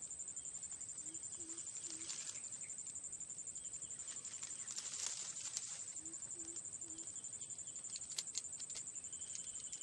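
A dove cooing three low notes in a row, twice, about five seconds apart, over a steady, rapidly pulsing high insect trill. Scattered light clicks and rustles, the loudest about five seconds in and near the end.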